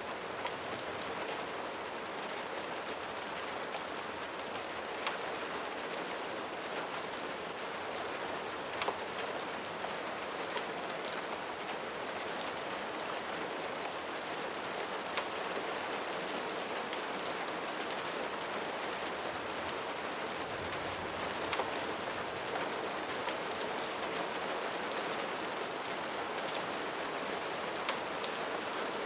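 Steady rain falling, a dense even patter with scattered sharp ticks of individual drops.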